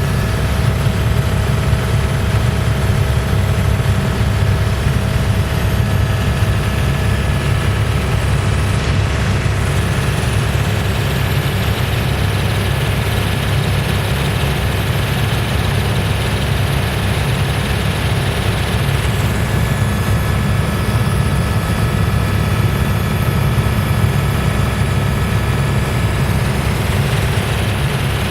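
Steady drone of a helicopter's engine and rotor heard from inside the cabin, heavy and low, with a few faint steady whining tones above it.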